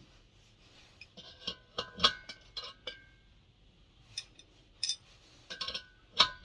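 Metal spanners clinking and clattering together in a series of sharp knocks, some leaving a short metallic ring, while different sizes are tried on a diesel heater's glow plug nut.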